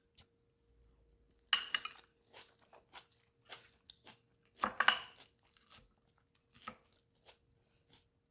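Crisp crunching of raw salad vegetables in irregular bursts, the loudest about one and a half and four and a half seconds in, with fainter crunches between.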